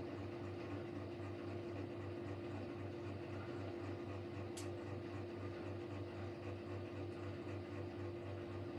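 Siemens Siwamat Plus 574 washing machine running at the end of its first rinse: a steady mechanical hum that pulses regularly in the bass, with a constant higher tone above it. One sharp click about four and a half seconds in.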